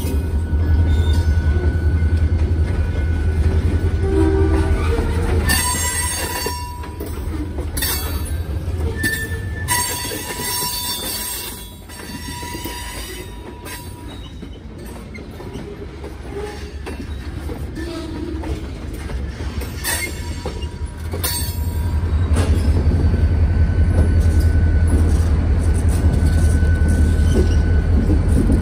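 Diesel freight train at work: a low locomotive engine rumble that eases off in the middle and comes back strong in the last third. In between come a series of sharp metallic clanks and squeals from the cars and wheels.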